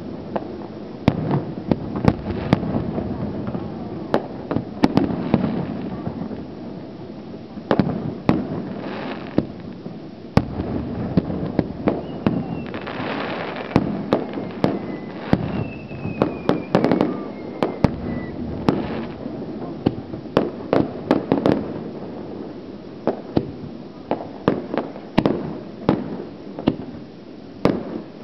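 Fireworks display: aerial shells bursting in a string of sharp bangs, sometimes several in quick succession, over the murmur of a crowd of spectators. About halfway through, a high whistle falls in pitch.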